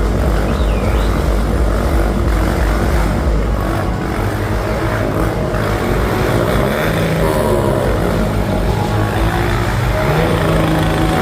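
Motorcycle engine running with a steady loud drone and a heavy low rumble that eases after about four seconds.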